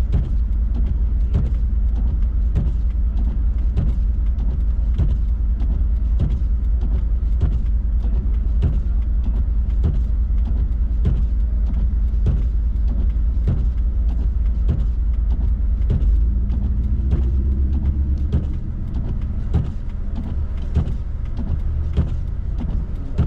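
Inside a Toyota RAV4 driving through snow: a steady low rumble of engine and tyres, with a faint regular tick about every two-thirds of a second. The rumble shifts and eases about two-thirds of the way through.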